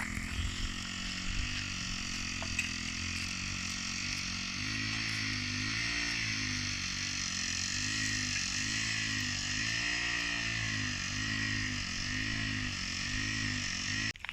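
An engine running steadily, its low hum wavering in a slow regular pulse about once a second, over a steady hiss; it cuts off abruptly near the end.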